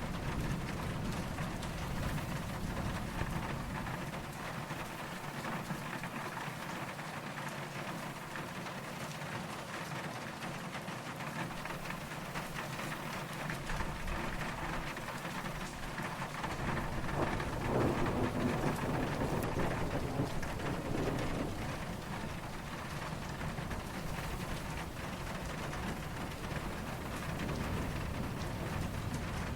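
Steady rain falling, with distant thunder rumbling low underneath. The rumble fades for several seconds early on, then swells again past the middle.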